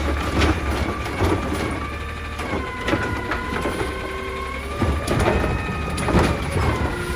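Garbage truck's diesel engine running under a steady hydraulic whine that shifts slightly in pitch, from the Heil Durapack Rapid Rail side loader's hydraulics at work. Irregular clunks and knocks come throughout as trash is handled.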